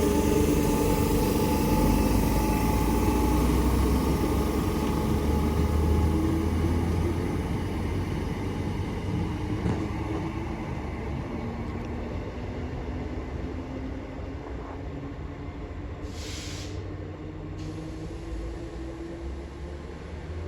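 Class 319 electric multiple unit pulling out of the station and drawing away: a rumble with a motor whine that slowly rises in pitch while the whole sound fades. A short hiss comes about three quarters of the way through.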